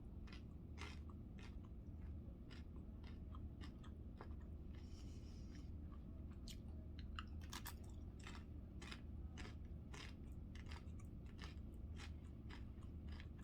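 Close-up chewing of a mouthful of food, with many short, sharp crunches scattered unevenly through it over a steady low hum.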